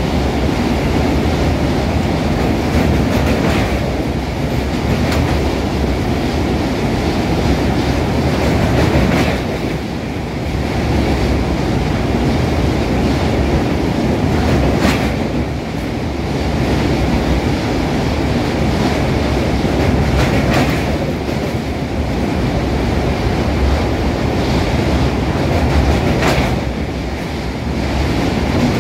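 Passenger train running over a long steel truss railway bridge, heard from inside the carriage: a steady, loud rumble of wheels on the rails, with a few brief sharper clatters.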